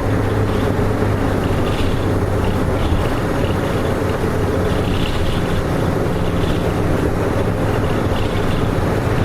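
Nissan Diesel RM bus's diesel engine and drivetrain running steadily while the bus drives, heard from inside the passenger cabin.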